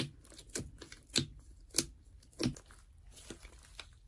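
A series of about five short, sharp clicks, evenly spaced a little over half a second apart, followed by fainter small ticks.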